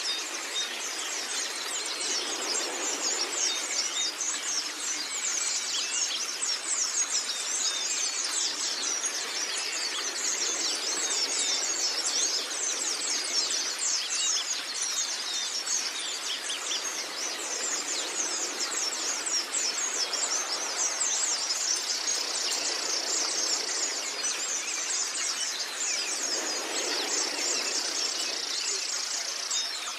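White-eye (pleci) singing a dense, fast, unbroken stream of high twittering chirps.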